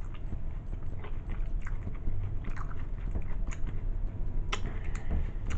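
Person biting and chewing a sub sandwich close to the microphone, with scattered wet, clicky mouth noises over a low hum.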